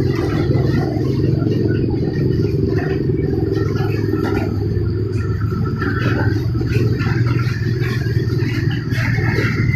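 Steady rain with wind, heard as a continuous heavy low rumble with a lighter patter above it.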